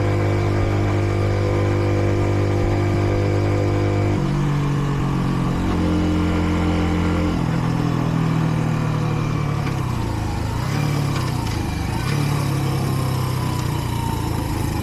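Kreidler Dice CR 125 motorcycle's single-cylinder engine heard from on board while riding. It holds a steady note for about four seconds, then its pitch steps down a few times in quick succession, like shifts or easing off, and afterwards rises and falls with the throttle.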